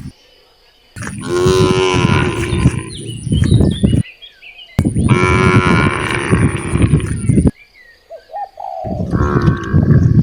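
Cows mooing: three long, loud moos a second or so apart, each lasting two to three seconds.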